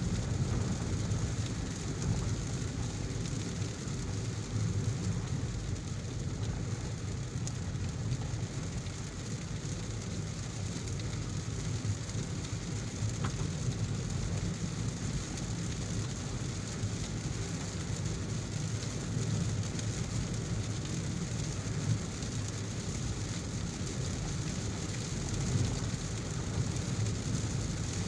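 Heavy rain heard from a moving car, a steady hiss over a constant low rumble of the car on the road.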